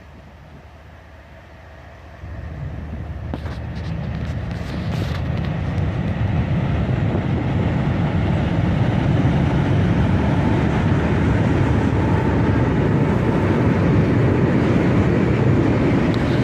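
Freight train led by three GE diesel locomotives approaching, its engine rumble and rail noise building from about two seconds in, then holding loud and steady as it passes.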